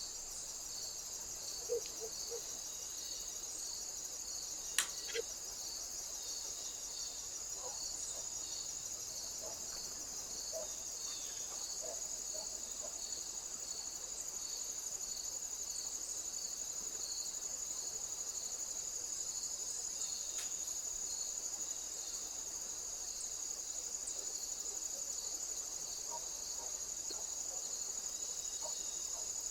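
Crickets chirring steadily in a high, continuous pulsing chorus. Two sharp clicks stand out about two and five seconds in.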